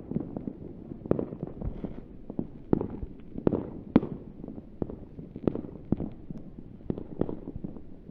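Fireworks going off: a string of sharp bangs and pops at irregular intervals, sometimes several a second, over a low rumble.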